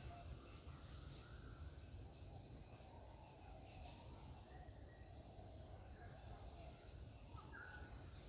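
Faint outdoor ambience: a steady high insect drone with a few short, rising bird chirps over a low rumble.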